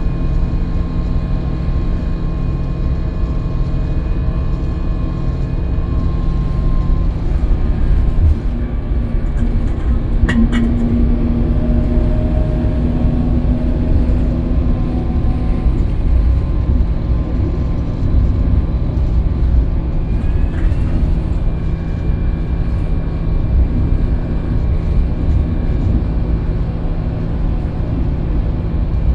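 Scania K320UB city bus under way: steady engine drone and low road rumble. A sharp click comes about ten seconds in, followed by a steady hum lasting about five seconds.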